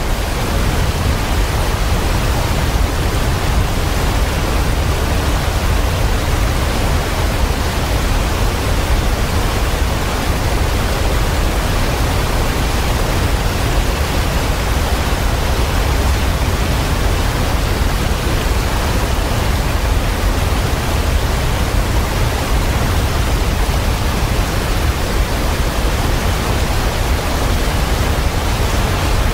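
Waterfall: a steady, loud rush of falling water, heaviest in the low end, cutting in suddenly at the start.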